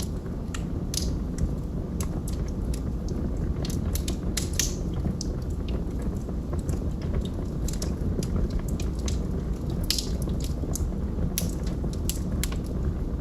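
Log fire burning, with a steady low rush of flame and frequent irregular crackles and pops from the burning wood, a few louder pops about a second in, around four and a half seconds and near ten seconds.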